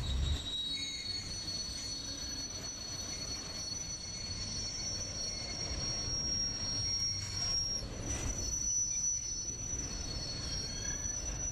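Train wheels squealing on the rails: a steady high-pitched squeal over a low rumble.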